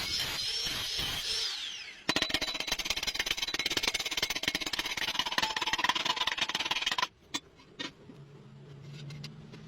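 Stick-welding arc crackling as a pipe joint is welded, starting abruptly about two seconds in and cutting off suddenly about five seconds later when the arc is broken.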